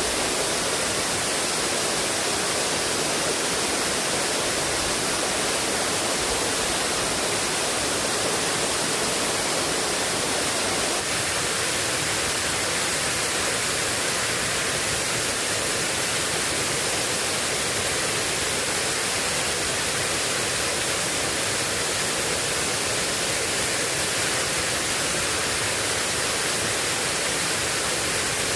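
Heavy rain falling steadily, an even loud hiss with no breaks.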